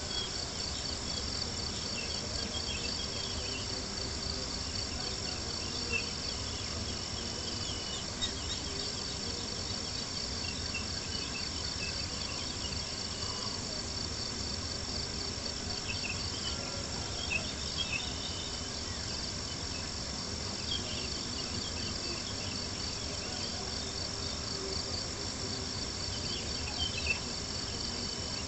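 Night insects chirping in a steady, fast-pulsing high trill, with a few sharp pops from a crackling campfire now and then.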